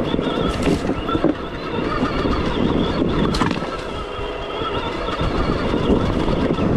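Stark Varg EX electric dirt bike being ridden off-road: a steady high whine from the electric motor over wind on the microphone and a continuous low rumble.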